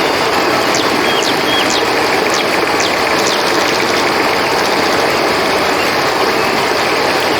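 River water rushing steadily, with a few brief, high calls sliding downward in the first few seconds and short high chirps.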